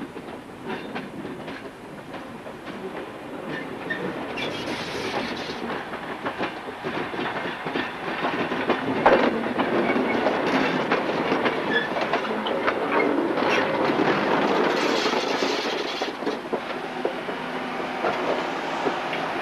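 Railway train rolling on the track, its wheels clacking over rail joints amid a steady rattle. It grows louder through the first half, then holds.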